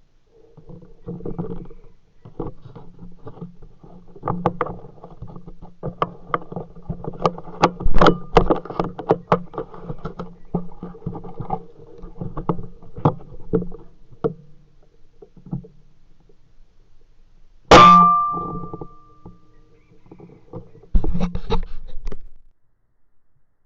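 Irregular clicking and knocking handling noises, then about 18 s in a single sharp, loud crack with a brief metallic ringing that fades within a second, typical of an air rifle being fired at the birds.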